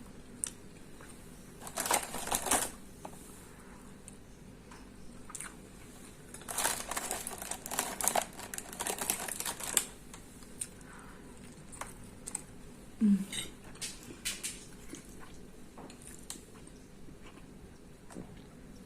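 Eating and handling sounds at the table: two spells of clicking and rustling, a short one about two seconds in and a longer one from about six and a half to ten seconds, then scattered light clicks.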